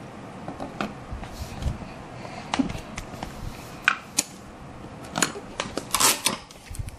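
Irregular clicks, taps and short snips of hand crafting work on a model ship, with a brief rustle among a cluster of louder clicks about six seconds in.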